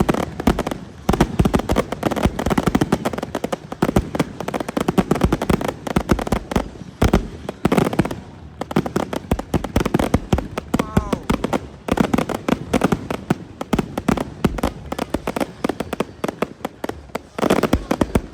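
A fireworks display: a rapid, continuous run of bangs and crackling from aerial shells.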